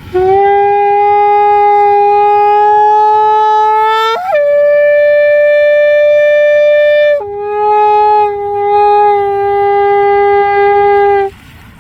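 Shofar blown in one long, loud blast: a held low note, a jump up to a higher note about four seconds in, then a drop back to the low note about three seconds later, held until it cuts off near the end.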